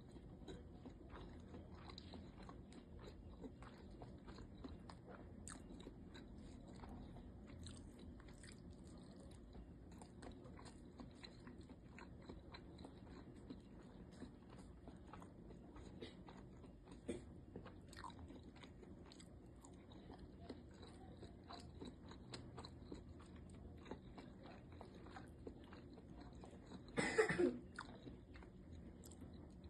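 Close-up eating sounds: a person chewing and biting siomai (steamed dumplings), with many soft, wet mouth clicks and smacks. About 27 seconds in there is a single louder noise lasting under a second.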